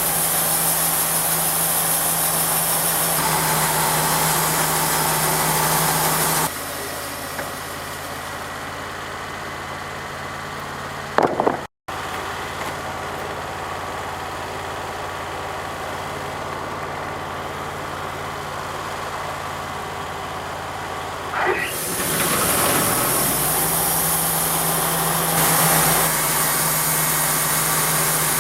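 An engine running steadily, with abrupt changes in level about six and twelve seconds in, and a brief drop and recovery in pitch about twenty-two seconds in.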